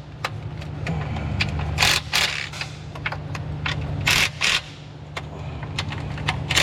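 Workshop work noises: several short, sharp clacks and scrapes of tools or parts handled against metal, over a steady low hum.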